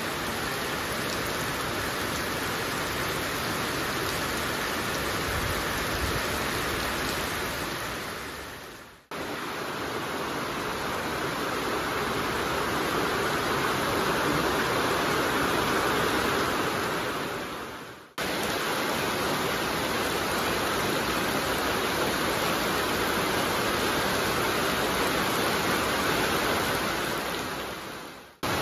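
Heavy monsoon rain pouring steadily, a dense even hiss. It fades out and cuts straight back in three times, about every nine seconds.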